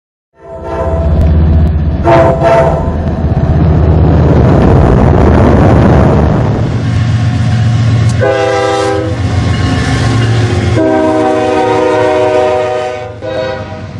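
Diesel freight locomotive passing close with a low engine rumble, its multi-tone air horn sounding a short blast about two seconds in, another near eight seconds and a long blast from about eleven to thirteen seconds.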